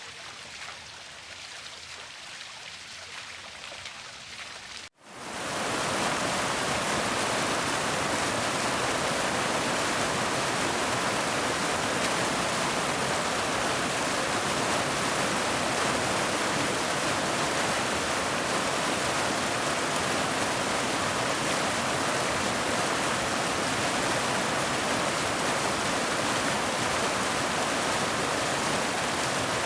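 Waterfall water running: a quieter, lighter flow for the first five seconds, then, after a sudden cut, a much louder steady rush of falling water.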